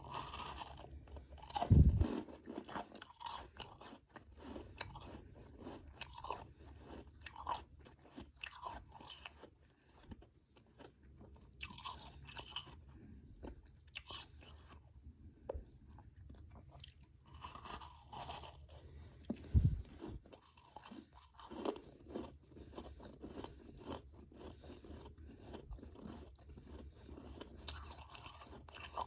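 Close-up chewing of frozen powdery ice and ice chunks: dense, irregular crunching bites. Two louder, heavier thuds stand out, about two seconds in and again about twenty seconds in.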